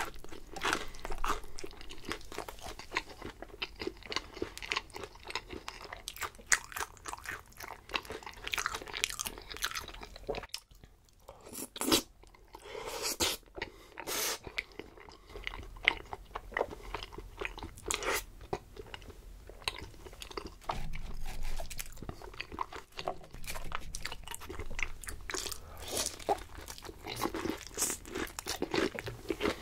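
A person biting and chewing crunchy food close to the microphone: a run of sharp crunches and chewing, easing off briefly about ten seconds in before the crunching starts again.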